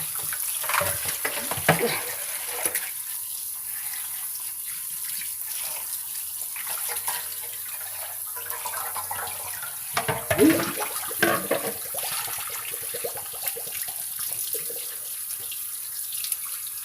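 Kitchen faucet running as a whole raw chicken is rinsed under it, a steady rush of water with louder bursts of splashing about a second in and again around ten seconds in.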